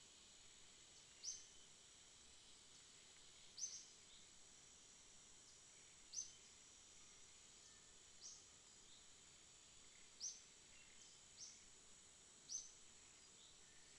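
Night-time outdoor ambience: a faint, steady high-pitched insect hum, with a short high chirp repeating every two seconds or so, seven times in all.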